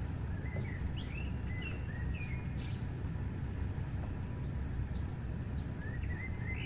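Birds chirping, a run of short gliding calls in the first few seconds and again near the end, over a steady low rumble.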